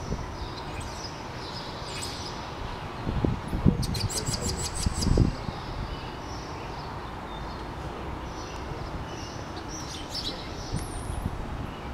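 Birds chirping over a steady low background hum, with a rapid run of clicks about four seconds in and a few low thumps.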